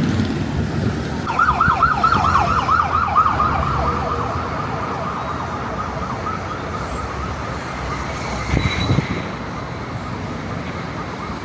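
A siren yelping in quick sweeps, about four a second, then settling into a steady tone that fades, over the low hum of road traffic.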